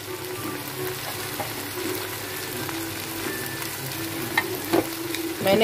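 Chicken and vegetables sizzling in hot oil in a wok while a wooden spoon stirs and scrapes through them, with a few light knocks of the spoon against the pan.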